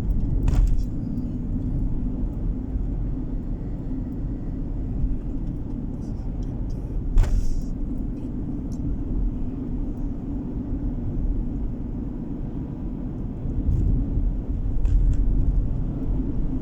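Steady low rumble of a car driving, engine and tyre noise heard inside the car, with a few short knocks, the loudest about seven seconds in.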